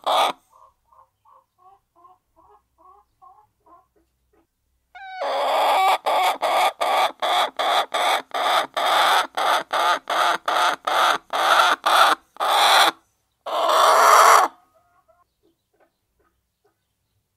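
Hens clucking softly, then one hen cackling loudly in a rapid run of calls, about three a second, that ends in a single longer call.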